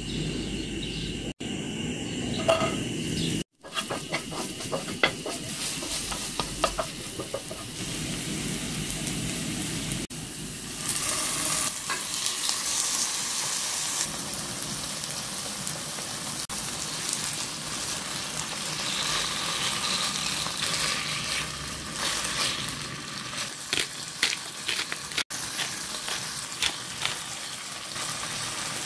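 Chopped onion and then chicken breast fillets sizzling in hot oil in a nonstick frying pan, with short taps and scrapes of a utensil. The sizzle grows louder about ten seconds in.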